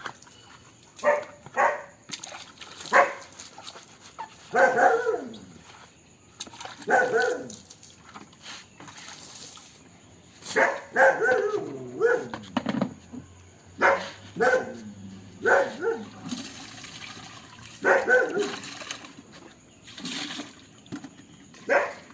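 A dog barking repeatedly in short clusters, about a dozen barks, some drawn out and falling in pitch. Water splashes faintly underneath.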